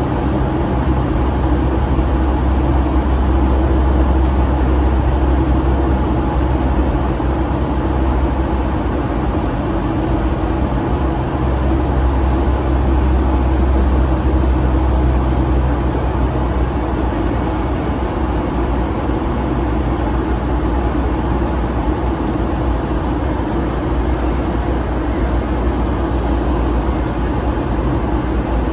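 Steady cabin noise aboard a Boeing 757-200 airliner: the engines and the air rushing past make a loud, even drone, deepest at the bottom.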